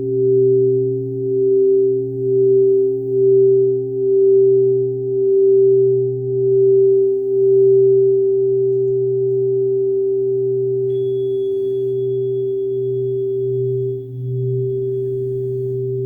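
Crystal singing bowls ringing together in several sustained tones, the sound swelling and fading about once a second before settling into a steadier hum; a faint high tone joins about two-thirds of the way through.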